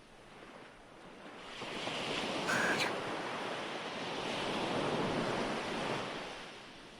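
Recorded ocean surf: a wave breaks and washes up, swelling about a second in, holding, then ebbing away near the end.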